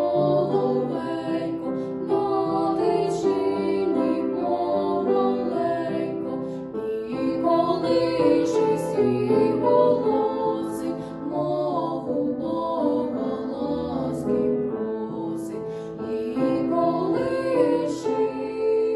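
Two female voices singing a slow song as a duet, over sustained low accompaniment notes.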